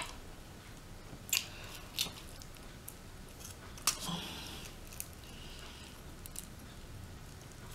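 Close-miked eating of rotisserie chicken: chewing, with a handful of sharp wet mouth smacks, the loudest four in the first four seconds.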